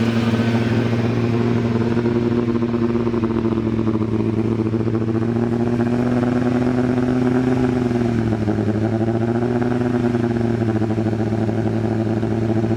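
A 32-year-old car engine running steadily at a fast idle. Its speed sags briefly about eight seconds in and then picks back up.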